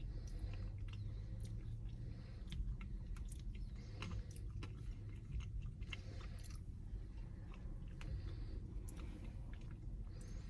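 A person chewing a spoonful of chocolate-dipped strawberry Blizzard close to the microphone, with small crunches and mouth clicks from hard chocolate pieces scattered throughout, over a low steady hum.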